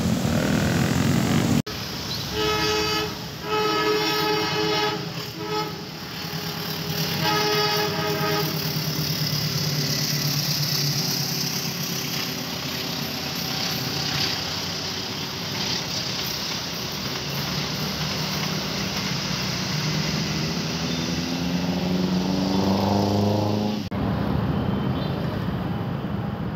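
Indonesian passenger train passing, its locomotive horn sounding several short blasts, the last about eight seconds in, then the steady rumble of the train rolling by on the tracks. A rising engine note swells shortly before the end.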